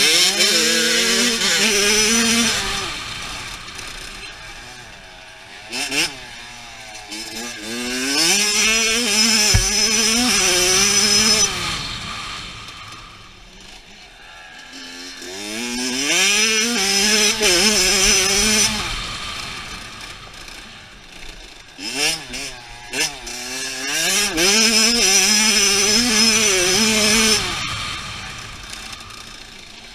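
Dirt bike engine revving up and down with the throttle as the bike passes close four times, about every eight seconds, fading away between passes.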